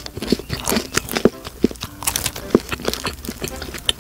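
Close-miked chewing of a salt bread roll: soft, wet mouth sounds broken by many small irregular clicks and smacks.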